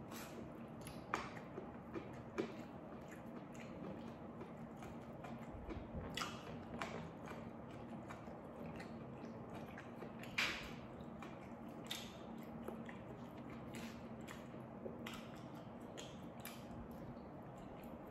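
A person chewing and biting into food, with irregular crunchy bites and mouth sounds, one louder crunch about ten seconds in, while eating rice with raw cucumber and other raw vegetables by hand.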